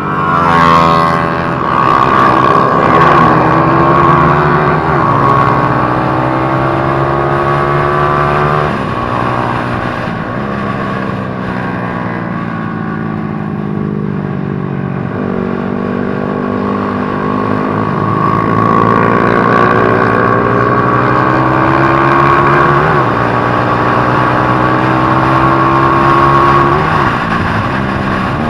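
150cc motorcycle engine under hard acceleration, its pitch climbing steadily and then dropping sharply at each upshift, several times over.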